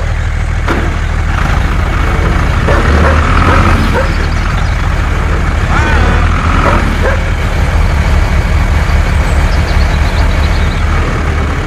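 Steady low truck-engine rumble, with a couple of short high calls over it, the clearest about six seconds in.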